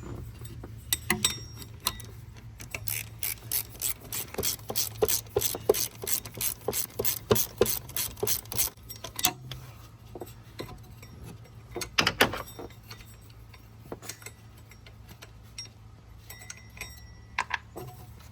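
Ratchet wrench clicking in quick, even runs as a rusty bolt is worked loose, followed by a few separate metal knocks about twelve seconds in. A steady low hum runs underneath.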